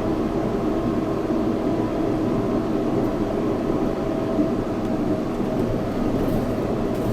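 Yurikamome 7300-series rubber-tyred automated train running along its guideway, heard from inside the front car: a steady rumbling running noise with a faint, even motor hum.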